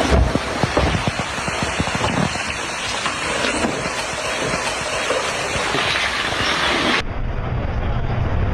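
Debris flow pouring down: a loud, steady rushing noise with many sharp cracks and knocks. It cuts off abruptly about seven seconds in, giving way to a low, steady drone.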